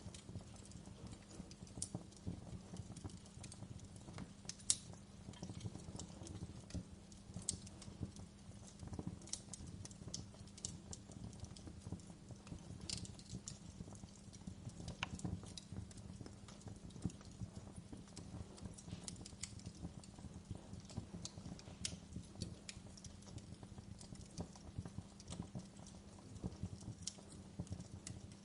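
Wood log fire crackling in a fireplace: irregular small pops and snaps over a low steady hum, with one sharper pop about five seconds in.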